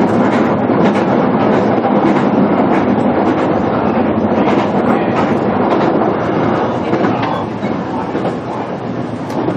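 Interior running noise of a JR Kyushu BEC819 'DENCHA' battery electric train under way: a steady rumble of wheels on rail with light clatter over rail joints, easing slightly near the end.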